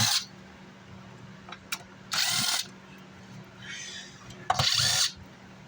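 Cordless power screwdriver or drill whirring in short bursts of about half a second each, driving screws out of the amplifier's casing.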